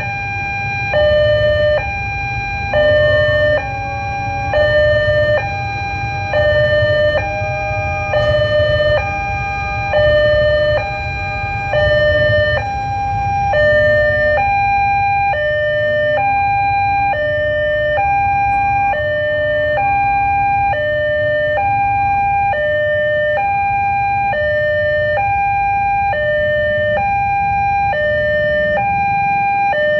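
Railway level-crossing warning alarm on a Siemens crossing installation, sounding a two-tone hi-lo tone that swaps evenly and continuously between a higher and a lower pitch. A steady low rumble runs underneath.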